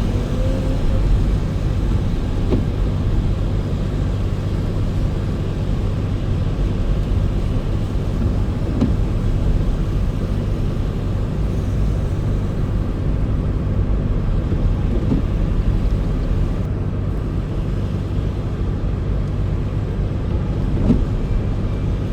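A car being driven: a steady, low rumble of engine and road noise.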